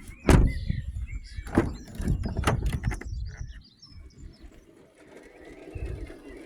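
Birds chirping and cooing in the background, with three sharp knocks about a third of a second, a second and a half, and two and a half seconds in, over uneven low rumbling.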